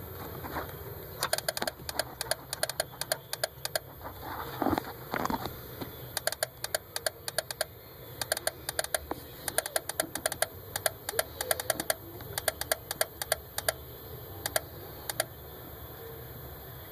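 Turn-signal flasher of a 2001 Daihatsu Terios clicking rapidly and irregularly in uneven bursts rather than a steady blink rhythm; the owner takes it for a fault. The clicking stops near the end.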